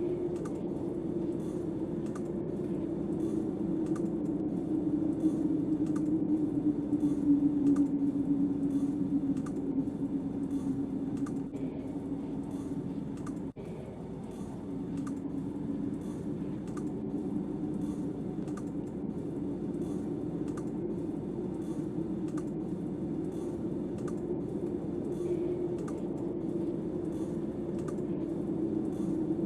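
Wood fire crackling with many small snaps, over a steady low drone of storm wind that swells a few seconds in and dips briefly around the middle.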